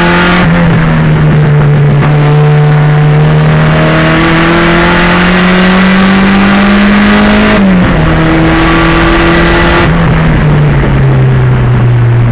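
Race-prepped 1987 Pontiac Fiero's turbocharged 2.0-litre engine pulling hard under load, its pitch climbing slowly. About seven and a half seconds in the pitch drops sharply, as at a gear change, then climbs again and drops once more near the end.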